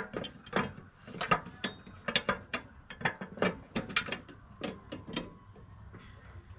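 An irregular series of sharp metallic clicks and clinks from hand tools and steel mower-deck spindle parts being worked on. The clicks stop about five seconds in.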